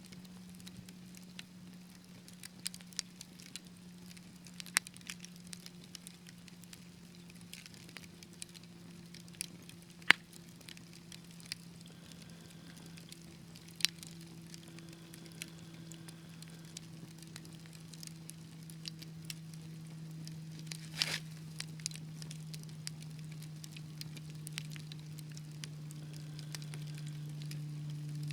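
Wood fire crackling, with scattered sharp pops, the loudest about ten seconds in, over a steady low hum that grows slightly louder toward the end.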